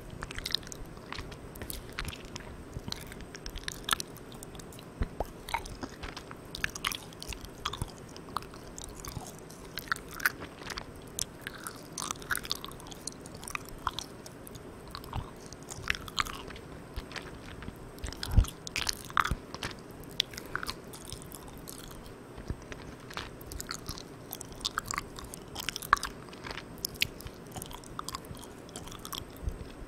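Close-miked sticky, chewy eating of soft Malang Cow milk candy: irregular wet mouth clicks and smacks. They sit over a steady hiss from the recorder's gain being turned all the way up.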